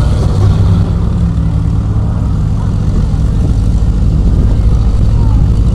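Engine of an off-road 4x4 truck running loud and steady, a low drone.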